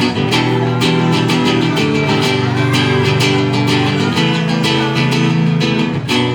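Acoustic guitar strummed steadily in an instrumental passage of a song.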